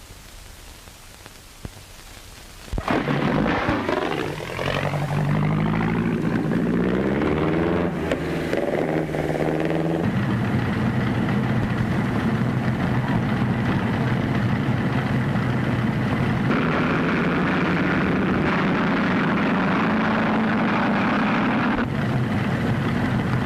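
Faint film-soundtrack hiss, then about three seconds in, several race car engines come in loudly, their pitches rising together as they accelerate, before settling into a steady engine drone.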